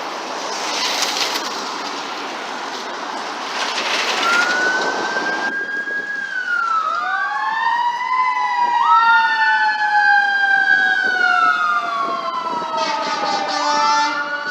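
A fire engine goes by with a loud rush of traffic noise, then electronic sirens wail, rising and falling, with more than one siren tone overlapping.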